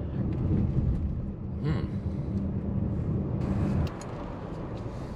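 Car engine and road noise heard from inside the cabin while driving, a steady low rumble that eases off about four seconds in.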